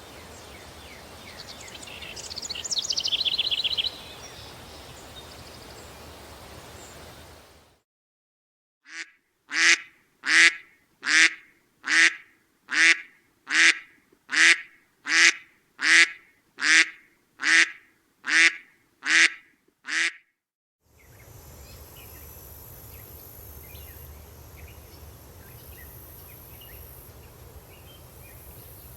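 A mallard duck quacking about fourteen times in an even series, roughly one quack every three-quarters of a second. Before and after it, a countryside ambience with birdsong and a steady breeze.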